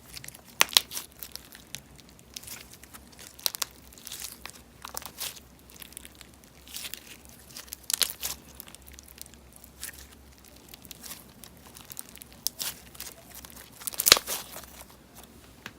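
Slime being squeezed, stretched and poked by hand, giving irregular crackling, crinkly pops, with louder bursts about a second in, around the middle and near the end.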